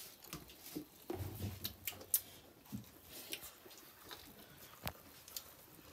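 Chewing and biting at a piece of chicken on the bone: a faint scatter of small clicks and mouth sounds, with a sharper click twice.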